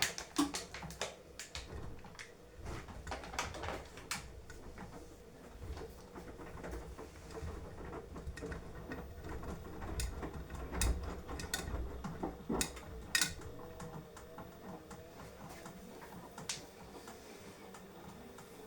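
Beko washing machine running its wash cycle: irregular clicks and knocks over a low rumble, with a faint wavering motor tone in the second half.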